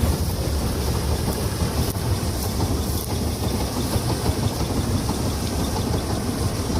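Combine harvester's engine running steadily, a continuous low drone.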